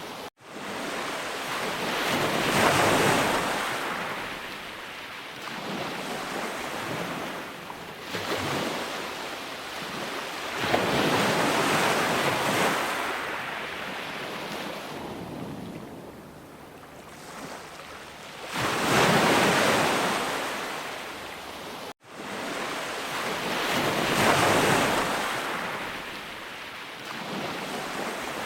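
Sea waves breaking on a shore, the surf surging and ebbing every several seconds. The sound drops out for an instant twice, near the start and about two-thirds of the way through.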